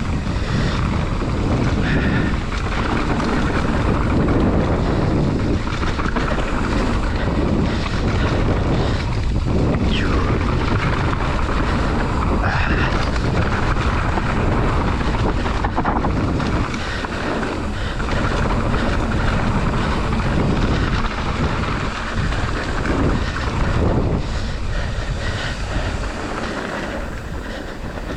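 Wind rushing over the microphone and the rumble and rattle of a mountain bike running fast down a rough trail, with a few brief high squeaks from the brakes, which the rider says are heating up.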